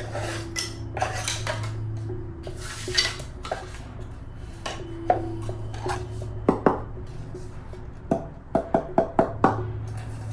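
Clattering knocks and taps of hard objects, some strikes ringing briefly, over a steady low drone of background music. Near the end comes a quick run of about five ringing taps.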